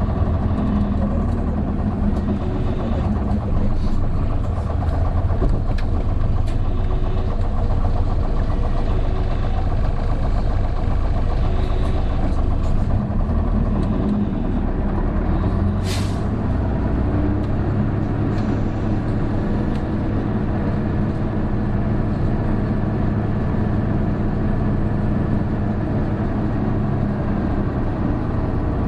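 Isuzu PJ-KV234L1 city bus heard from inside the cabin, its turbo-diesel engine running steadily under load on an uphill run, with the bus's characteristic whining noise that starts once the turbo comes in around 1300 rpm. A brief sharp air hiss about 16 seconds in.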